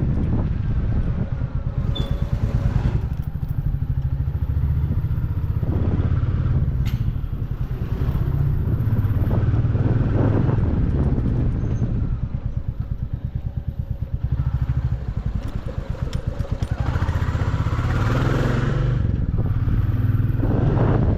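Motorcycle engine running on the move, its note rising and falling several times as the throttle is opened and eased.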